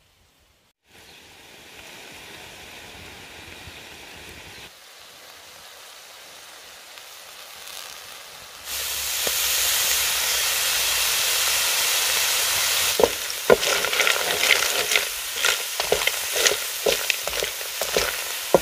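Snails in their shells frying in a wok: a steady sizzle that gets louder about nine seconds in, with chili sauce in the pan. In the last few seconds a bamboo stick stirs them, the shells clicking and clattering against the wok.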